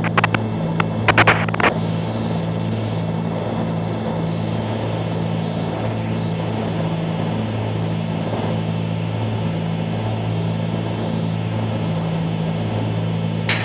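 Cabin drone of a 1974 Cessna 310Q's twin piston engines and propellers in cruise flight, steady, with an even slow throb about one and a half times a second.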